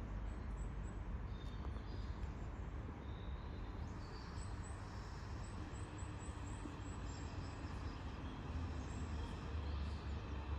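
Steady low rumble of railway station background noise, with small birds chirping in short high notes throughout.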